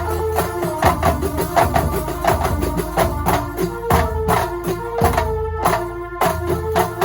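Banyuwangi kuntulan music: a fast, dense frame-drum and percussion rhythm punctuated by deep drum strokes, over held melodic tones.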